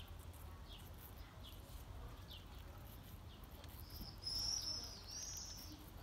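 Small birds calling: short, high falling chirps about once a second, then a louder, higher two-part call about four seconds in.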